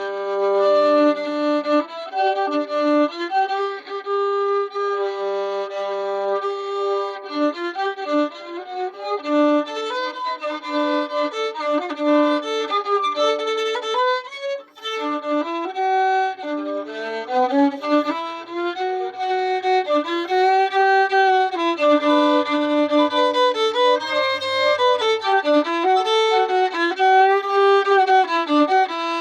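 Solo fiddle bowed through a tune in an attempt at a Cajun sound, with notes that slide up and down in pitch and a short break about halfway through.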